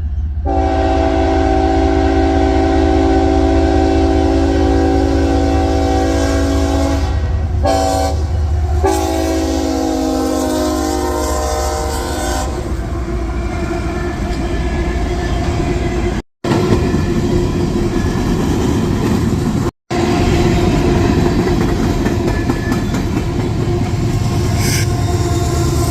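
CSX empty coal train passing. The diesel locomotive's horn sounds a long blast, a brief one and another long blast that sags in pitch as it goes by. Then the locomotives and the empty coal cars rumble and clatter steadily over the rails, with the sound cutting out for an instant twice.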